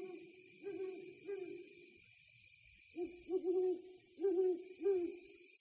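A series of short, low hooting animal calls in two runs separated by a pause of about a second, over a steady high whine.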